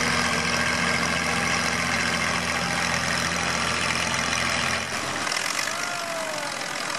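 Antique farm tractor engine running steadily at a low idle, its hum dropping away about five seconds in, over steady outdoor background noise.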